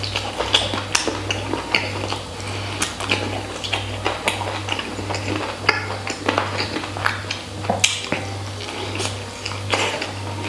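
Close-up chewing of braised pork rib: irregular wet smacking and clicking mouth sounds, over a steady low hum.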